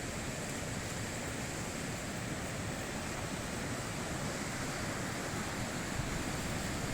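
High-mountain river rushing steadily over rocks, a constant even wash of water noise.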